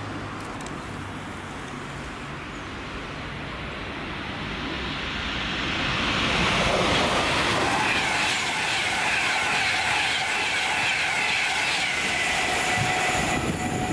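Express passenger train passing at speed: a rushing rumble of wheels on rail that swells from about four seconds in, stays loud for the second half with a high whine on top, and starts to fall away near the end.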